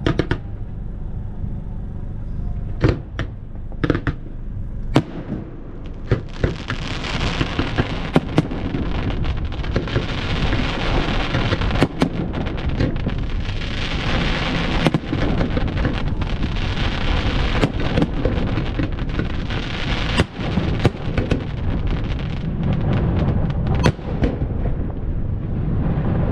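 Fireworks display: a few separate booming bursts, then from about six seconds in long stretches of dense crackling and hissing shells, with sharp bangs among them.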